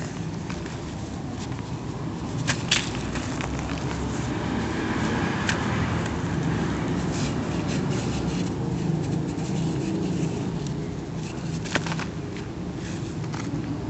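Cement being crumbled: a continuous gritty crunching with a low rumble and a few sharp cracks, about two and a half, five and a half and twelve seconds in.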